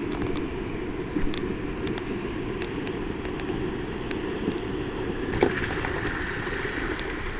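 Dirt bike running along a trail, heard from the bike-mounted microphone with wind noise on it, a steady low rumble with a few sharp ticks.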